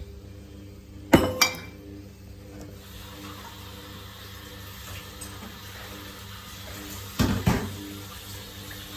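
Samsung WF1700WRW front-loading washing machine mid-wash: water sloshing in the drum over a steady motor hum. Two pairs of short thuds come about a second in and near the end.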